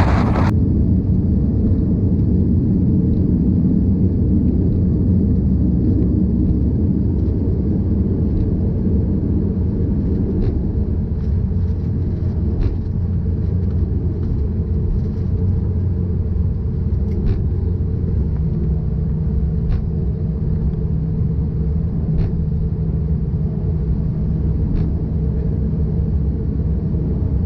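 Steady low rumble of a Bombardier Dash 8-Q400 turboprop airliner rolling on the runway after landing. A brief rush of wind noise cuts off right at the start, and a steady engine hum comes in about two-thirds of the way through.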